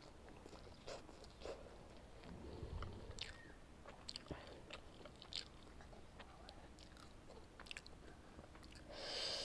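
Faint, close-miked chewing of instant noodles with scattered small mouth clicks and smacks, and a short, louder rush of noise near the end.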